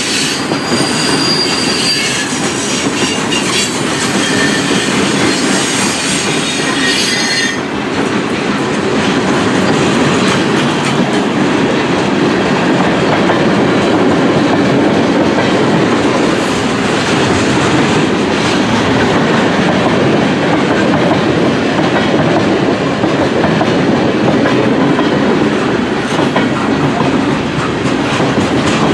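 Freight cars of a long mixed freight train rolling past close by, with a steady rumble of steel wheels on rail. A high squeal from the wheels is heard for the first seven seconds or so and then cuts off suddenly.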